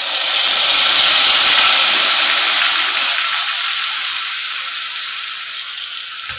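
Spiced yogurt masala poured into hot oil, sizzling loudly the moment it hits and slowly dying down as it fries.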